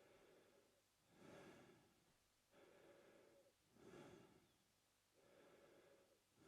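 A man breathing quietly and steadily through his mouth, in and out. There are about two and a half full breath cycles, each roughly two and a half seconds long, with a louder, airier breath alternating with a softer one.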